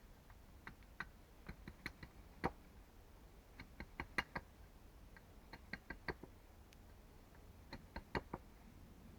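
Light, sharp taps of a hand tool striking wood, coming in irregular little groups of two to five strikes with short pauses between.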